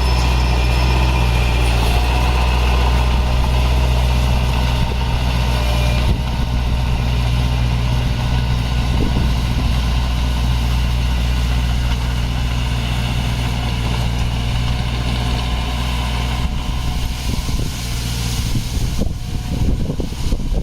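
Heavy construction machine's diesel engine running steadily at a low, even pitch, turning rougher and less even near the end.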